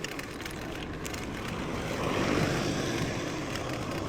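Mountain bike riding noise picked up by a chest-mounted action camera: wind on the microphone and tyre rumble, steady and swelling a little about two seconds in.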